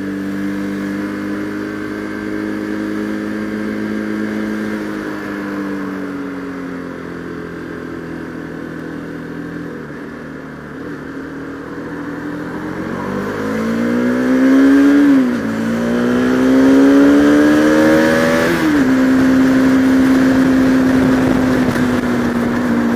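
Bajaj Pulsar RS200's single-cylinder engine, heard from the rider's helmet over wind rush. It eases off with falling revs, then accelerates hard with two upshifts, about 15 and 19 seconds in, and settles into a steady cruise.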